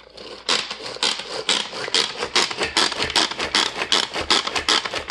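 Hand-operated food chopper being worked quickly, its blades and housing clattering in a fast, steady run of strokes that starts about half a second in, chopping and mixing carrots, apple, olives and pecans.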